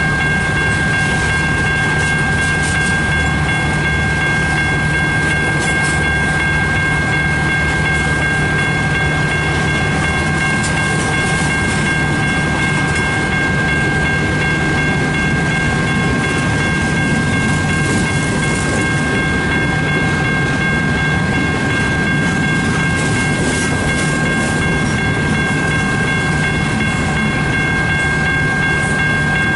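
Freight cars of a slow CN freight train rolling past a grade crossing, a steady rumble with wheel clatter on the rails, with a steady high-pitched tone over it.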